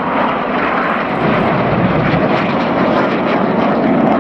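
Red Arrows BAE Hawk T1 jets flying in display, their engines making a steady rushing jet noise that grows a little louder near the end.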